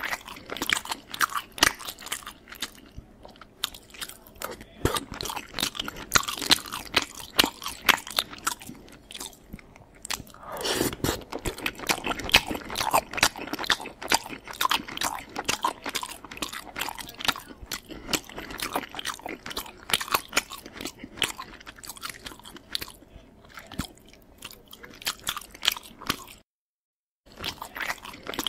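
Close-miked crunching and chewing of food: a dense run of crisp clicks and crunches. The sound cuts out completely for about a second near the end.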